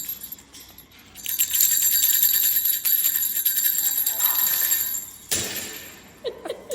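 Small bells jingling rapidly and loudly for about four seconds, as if a bell toy were shaken, then a few short squeaky sounds near the end.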